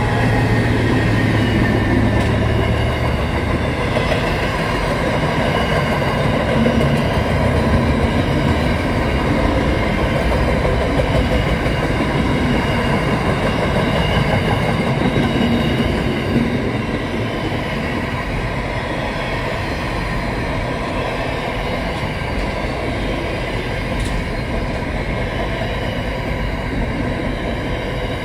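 SCT freight train passing close by: the diesel locomotives' low engine rumble as they go past at the start, then the container wagons rolling by with a steady rumble of wheels on rail, a little quieter after about sixteen seconds.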